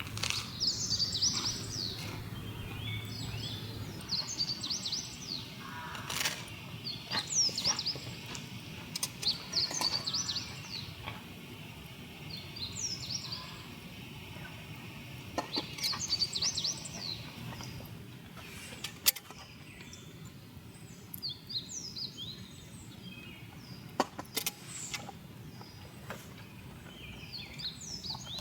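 A songbird singing repeated short phrases of quick, sweeping high notes every few seconds, with a few sharp isolated snaps.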